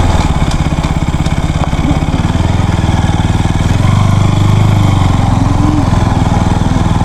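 KTM RC 200's single-cylinder engine running at low speed as the motorcycle rolls slowly along. The engine note is steady and swells a little about four seconds in.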